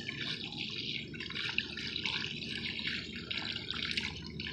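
Water from a hose spraying onto a central air conditioner's outdoor condenser coil, splashing and dripping off the fins as it rinses out soap and dirt.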